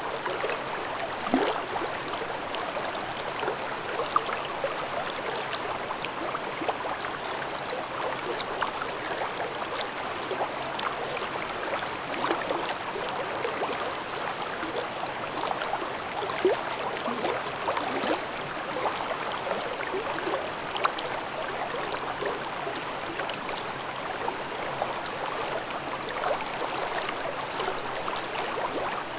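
A mountain stream babbling over rocks in a gorge: a steady rush of water with many small splashes and gurgles, and a few brighter splashes now and then.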